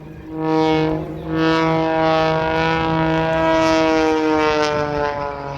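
Propeller aircraft engine droning overhead with a steady buzzing tone that swells, then drops slightly in pitch near the end as the plane passes by.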